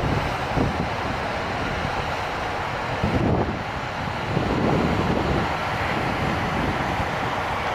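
Steady jet noise of a Boeing 787 airliner arriving to land, with gusts of wind buffeting the microphone.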